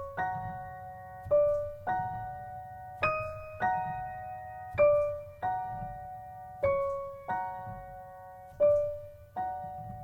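Solo piano playing a slow, sparse figure of single notes and small chords, each struck and left to ring and die away.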